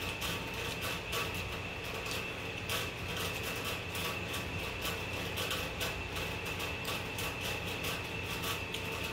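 Steady room hum with a thin, constant high whine, under small irregular clicks of a person chewing food.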